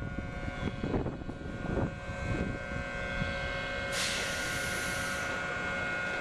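Electric commuter train standing at the platform with a steady mechanical hum of several held tones over a low rumble. About four seconds in, a loud hiss of compressed air lasts just over a second.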